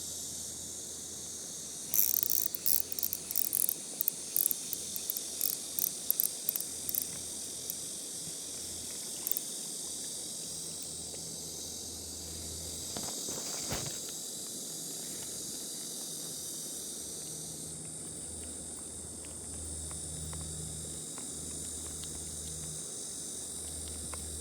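A steady high-pitched chorus of insects singing on a summer evening, with a run of loud, sharp, irregular clicks for several seconds near the start and a brief swish about halfway through.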